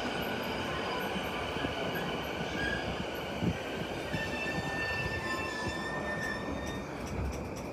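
Shinkansen bullet train running with a steady rumble; thin, high squealing tones come in about halfway through.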